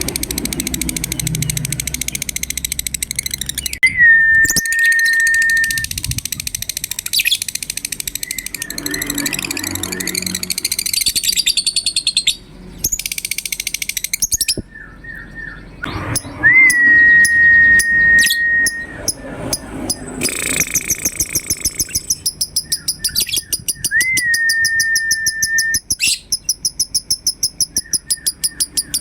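Lovebirds chattering in fast, high, rapid-fire chirps, the long trilling 'ngekek' used as bait song to get other lovebirds to call. Three times a pure, steady whistled note is held for about two seconds.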